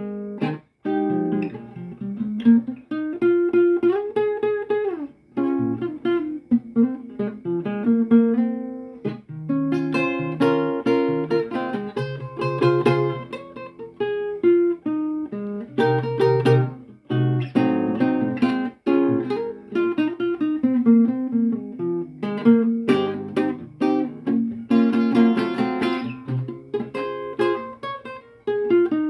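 Acoustic guitar played freely: single notes and melodic runs picked over chords, with a strummed chord struck every few seconds.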